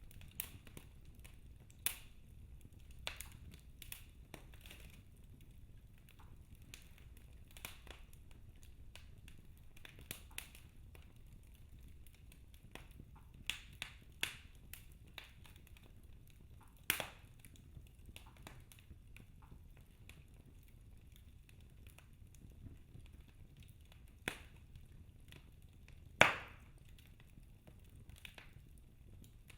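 Wood fire burning in a fireplace: scattered sharp crackles and pops at irregular intervals over a low steady rumble, with a loud pop just past halfway and the loudest one near the end.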